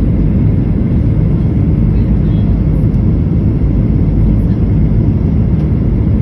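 Boeing 737 airliner in flight on approach, a steady low rumble of engine and airflow noise.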